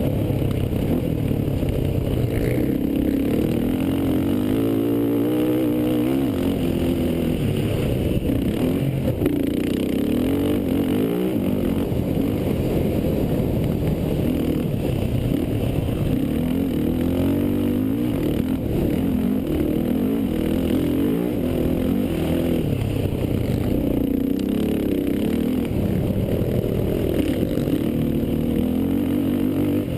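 Racing quad (ATV) engines revving up and down, with overlapping engines whose pitch rises and falls with each throttle change.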